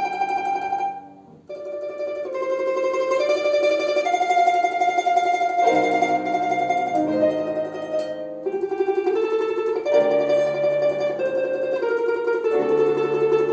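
Plucked string instrument playing a folk-song melody in held, tremolo notes over a lower accompaniment, with a brief break between phrases about a second in.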